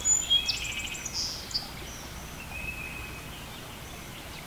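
Birds chirping and whistling over a steady outdoor hiss. The calls are busiest in the first second or so and then thin out to a single faint call, and the background slowly fades down near the end.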